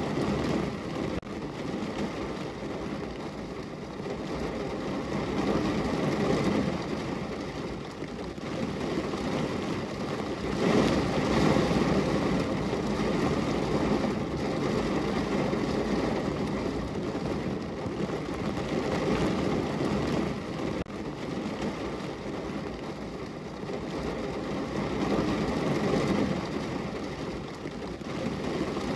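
Steady rain heard on a window pane, a dense hiss weighted towards a low rumble that swells louder a few times.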